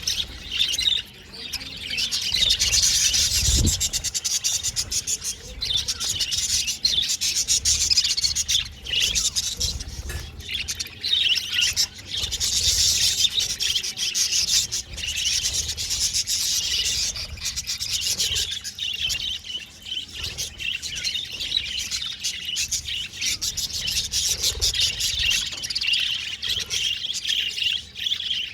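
Budgerigars warbling and chirping in a continuous chatter, with many fast fine clicks mixed in. One dull low thump about three and a half seconds in.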